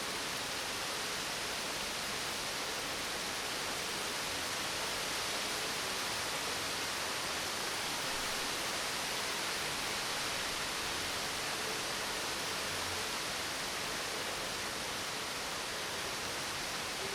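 Steady rainfall, an even, unbroken hiss with no thunderclap.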